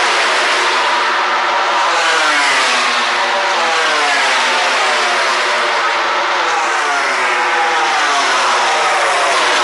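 MotoGP racing motorcycles passing one after another at high revs, their overlapping engine notes each falling in pitch as they go by.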